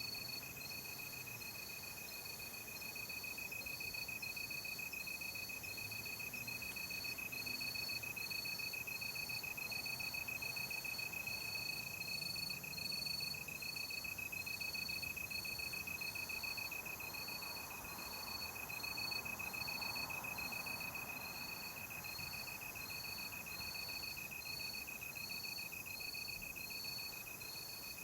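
Night-time forest insects: one high, steady trill, and over it a regular chirp repeating about once a second, with faint background hiss.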